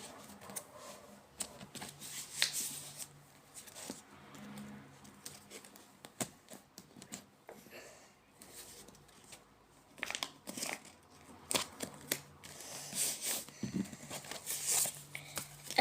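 A sheet of A4 paper being folded and handled: scattered rustles, crinkles and crisp creasing taps, busier in the first few seconds and again in the last six or so.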